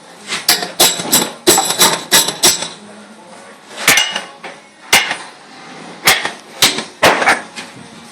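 Hammer striking metal with sharp, ringing blows: a quick run of about seven strikes in the first two and a half seconds, then single blows spaced about a second apart.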